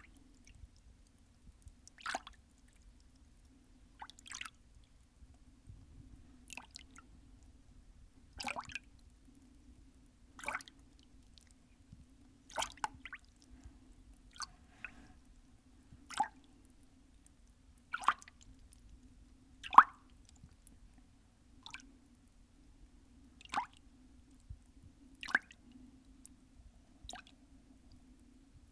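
Single drops of water falling and plopping, one short drip after another about every two seconds, each brief, over a faint steady low hum.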